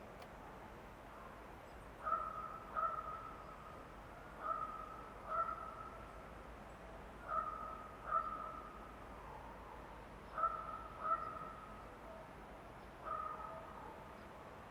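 A bird calling in pairs of short, clear notes, about five pairs a couple of seconds apart, over a faint steady forest hiss.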